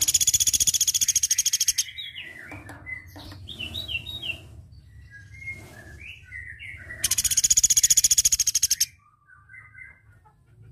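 Platuk beras bird calling: two loud, very rapid trills of about two seconds each, one at the start and one about seven seconds in, with softer chirps and short whistled notes between them.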